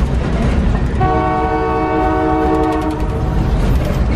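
A train of boxcars rolling past close by with a steady low rumble. About a second in, a locomotive air horn sounds one steady chord for about two seconds, then stops.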